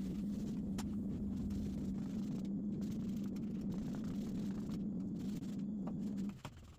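A steady low mechanical hum with a faint tone, a couple of light clicks over it, cutting off suddenly about six seconds in.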